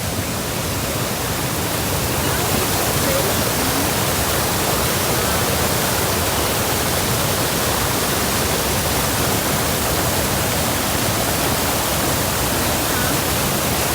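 A waterfall rushing: a loud, even hiss of falling water that builds a little over the first two seconds and then holds steady.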